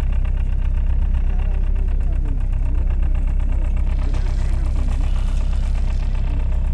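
Tourist boat's engine running steadily with a fast, even chugging beat, with a brief hiss of water or wind partway through.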